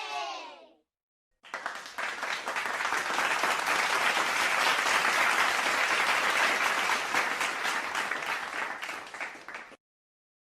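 Crowd applause: many people clapping for about eight seconds, building up and fading out near the end. Just before it, the tail of a cheering crowd dies away.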